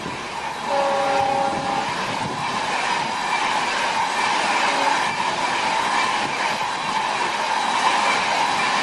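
Indian train running along the track, a steady rumble and clatter of wheels on rails. A short two-note horn-like tone sounds about a second in.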